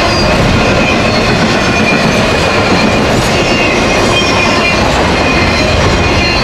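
Freight train passing at speed: a steady, loud rumble of steel wheels on rail from intermodal cars carrying highway trailers, with faint, brief high wheel squeals coming and going.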